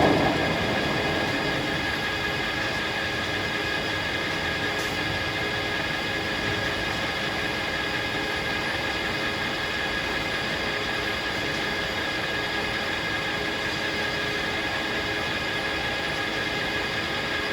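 Circular sawmill running steadily: a constant machine drone with a steady high whine, no cut starting or stopping.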